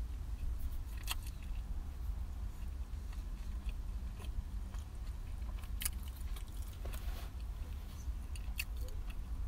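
Close-up chewing of a toasted ham and cheese sandwich, with a few short crisp crunches from the toasted bread. A low steady rumble runs underneath.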